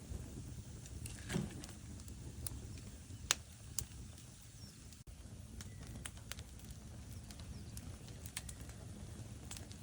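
Logs burning in a fireplace: a steady low rumble from the fire with scattered sharp crackles and pops. The loudest pops come a little over a second in and about three seconds in, with quicker small crackles in the second half.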